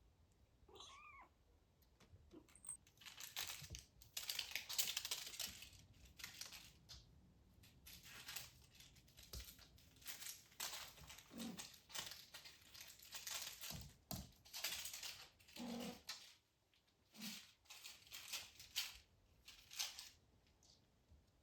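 A British Shorthair kitten gives one short meow about a second in, followed by many irregular bursts of crinkling and rustling as the kittens play with crinkly paper and toys.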